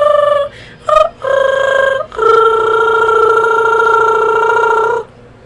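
A girl's voice making a silly, wordless noise along to a song's tune: a few short pitched notes, then one long held note that cuts off about five seconds in.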